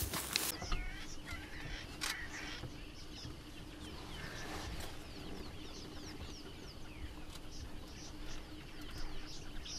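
Birds calling: many short, high chirps that slide downward, repeated throughout, over a faint steady hum.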